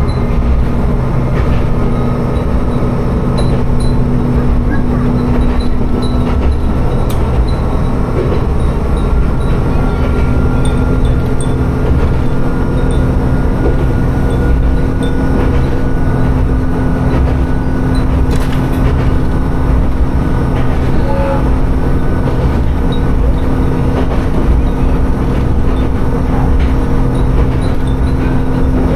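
Diesel railcar running on the line between stations: a steady low engine drone with rumble from the wheels on the rails, and a faint thin whine that creeps up in pitch.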